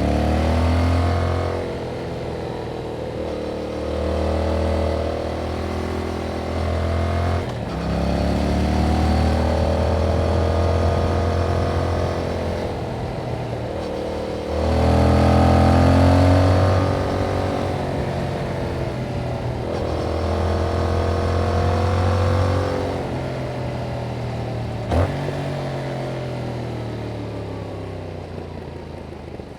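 2021 Yamaha MT-07's 689 cc parallel-twin engine running through its stock exhaust while riding, repeatedly accelerating and easing off so the pitch climbs and falls, with short breaks at gear changes. One sharp click about 25 seconds in.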